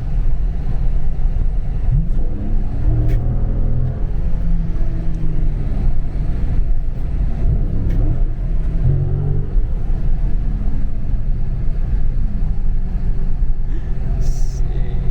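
Dodge Charger Scat Pack's 392 Hemi V8 running under a steady low rumble, with the revs rising and falling twice, about two seconds in and again around eight seconds in, as the rear tyres spin on snow under throttle.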